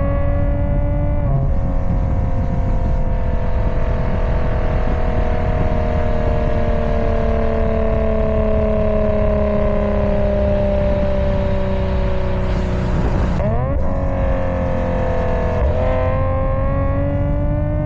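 Subaru EZ30R 3.0-litre flat-six running through an aftermarket exhaust of headers, high-flow cats, an X-pipe and Kakimoto Racing Regu06&R titanium mufflers. The exhaust note falls slowly and steadily for about twelve seconds, changes abruptly about thirteen seconds in, then rises again near the end.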